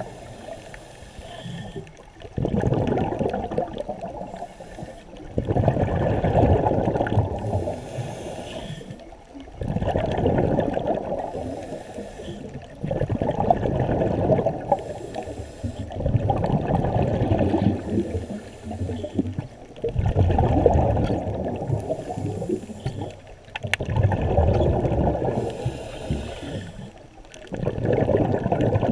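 Scuba diver breathing through a regulator underwater: the exhaled bubbles gurgle in a regular rhythm of about one breath every four seconds, with short quieter gaps between breaths.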